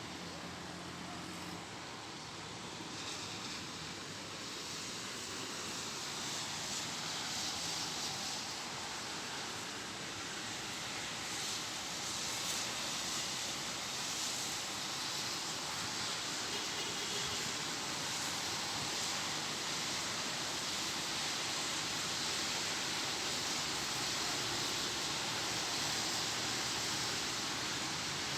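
Steady hiss of rain falling, growing slightly louder over the stretch.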